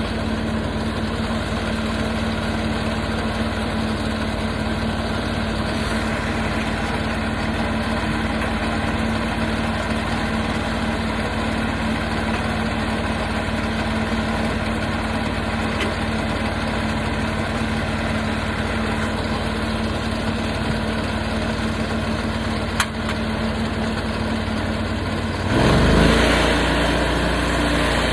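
Portable sawmill's gasoline engine running steadily at idle, then revving up and getting louder about 25 seconds in. A single sharp click comes a few seconds before the rev-up.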